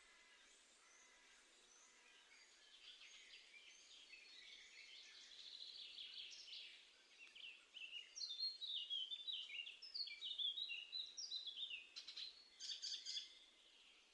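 Wild songbirds singing and calling, faint at first and then a busy run of quick falling notes and sharp chirps over the second half.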